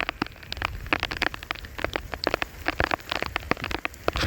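Heavy rain, with many drops tapping irregularly and sharply on a hard surface.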